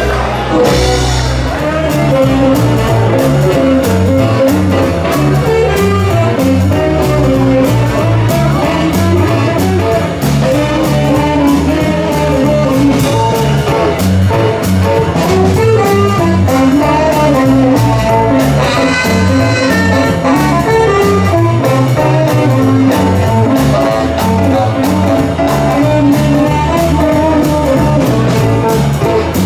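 Live swing-blues band playing an instrumental break, with electric guitar, brass and drum kit on a steady beat.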